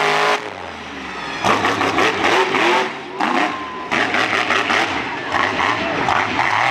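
Monster truck engine revving hard and dropping back repeatedly, its pitch falling just after the start, then loud bursts of throttle from about a second and a half in.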